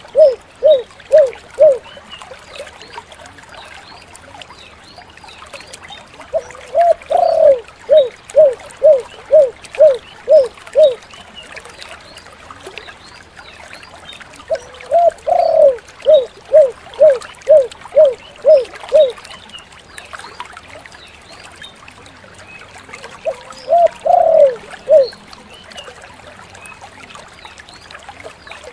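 Spotted dove (tekukur) cooing in repeated phrases: each opens with a longer, louder coo followed by a quick run of about seven short coos, about two a second, with a phrase roughly every eight seconds. The last phrase, near the end, is shorter.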